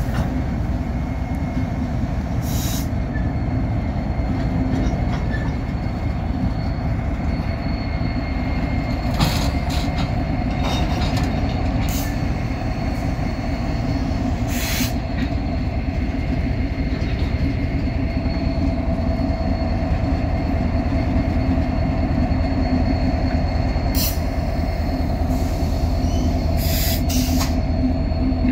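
Freight train moving slowly while switching a facility, its EMD SD70M-2 diesel locomotive running steadily. A thin, high wheel-flange squeal runs over the rumble, and several sharp clanks from the cars come at irregular moments.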